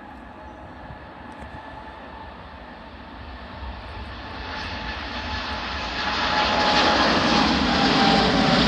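An airliner's engines growing steadily louder as the aircraft approaches, a rushing roar with a steady whine in it, loudest over the last few seconds.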